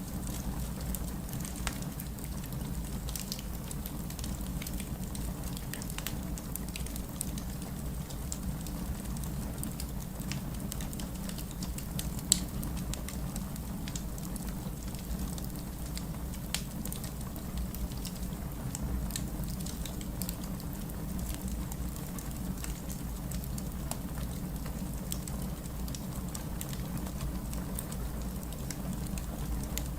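Steady rain with a wood fire crackling over it, small sharp pops scattered throughout. One pop about twelve seconds in stands out, much louder than the rest.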